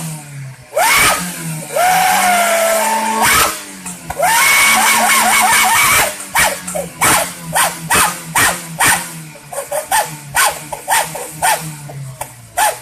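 Engine revved through an aftermarket 'wolf/dog sound' whistle exhaust. Two longer revs, about one and four seconds in, make a howl-like whistle that glides in pitch. After them comes a quick run of short throttle blips, each giving a brief yelp over the idle.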